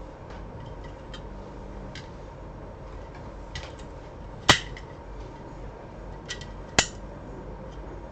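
Light clicks and two sharp knocks, about two seconds apart, of small hard objects being handled and set down on a work surface, over a steady low background hum.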